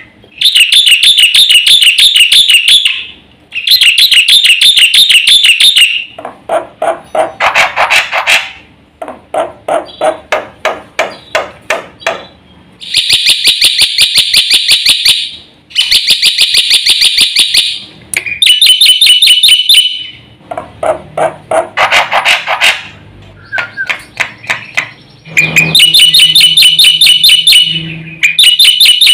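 Black-winged starling (jalak putih) singing loudly in bursts of very rapid repeated notes, each phrase lasting two or three seconds, switching between shrill high runs and lower, rougher runs.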